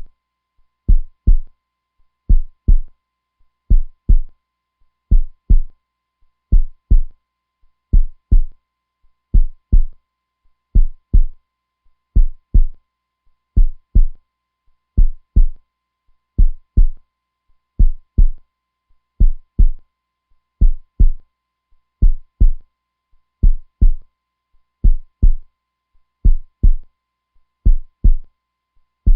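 A heartbeat beating slowly and steadily: deep lub-dub double thumps, about one pair every second and a half.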